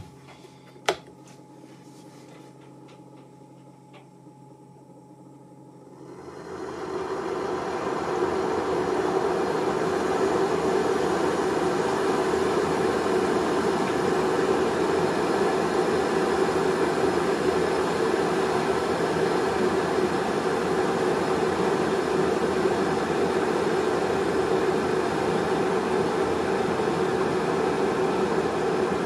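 Electric kettle with dragees dissolving in it: a sharp click about a second in, then a steady rushing rumble of water heating towards the boil that builds up about six seconds in and holds.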